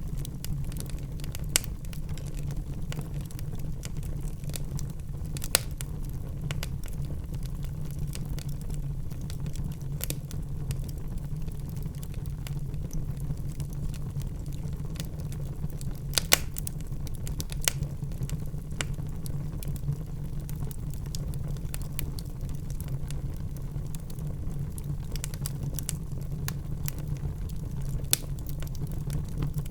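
Wood fire burning in a fireplace: a steady low rumble of flames with constant small crackles and a few louder pops scattered through.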